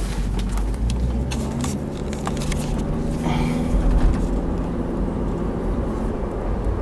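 Steady low rumble of a moving car heard from inside the cabin: engine and road noise, with a few faint clicks.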